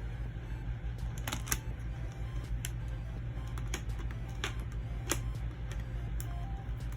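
Plastic CD jewel case and its cards being handled: about half a dozen sharp, scattered clicks and taps over a steady low hum.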